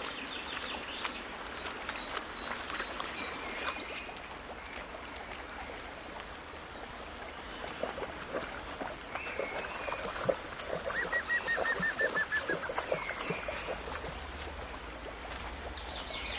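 Birds calling outdoors, with a short, rapid trill of repeated notes about eleven seconds in.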